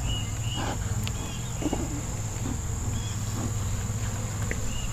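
Honeybees buzzing around an opened Warré hive as a steady low hum, under a steady high-pitched insect drone with short chirps repeating about once or twice a second.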